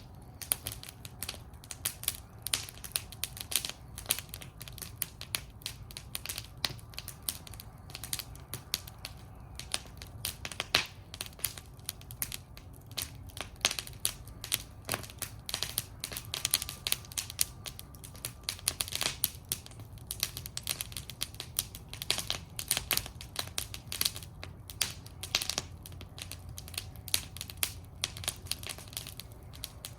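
Wood fire burning in a metal fire bowl, crackling steadily with many irregular sharp pops and snaps over a low, soft rumble of flames.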